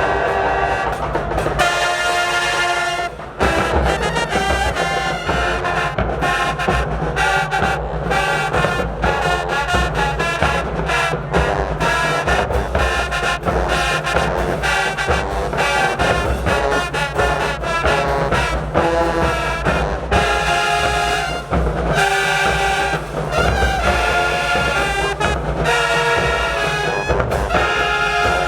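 High school marching band playing loud brass chords with a heavy low end, continuous apart from a brief break about three seconds in.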